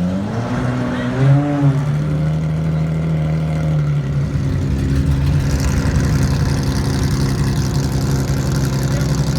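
Ferrari 575 GTC Evoluzione's V12 race engine, blipped once about half a second in with a quick rise and fall in pitch, then idling steadily through its raw race exhaust.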